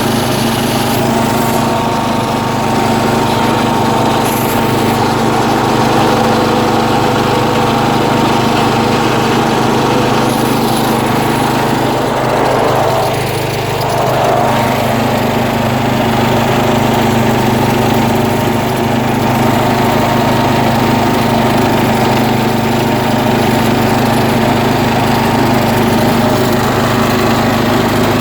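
John Deere tractor engine running steadily under load as the tractor drives through soft sand, with a brief dip in level about halfway through.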